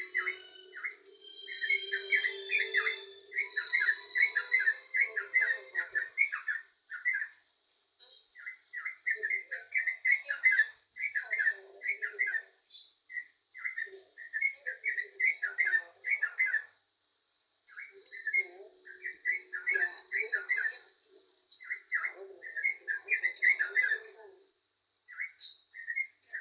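Yellow-vented bulbul (trucukan) singing: quick, bubbly warbled phrases about a second or two long, repeated again and again with short pauses between them.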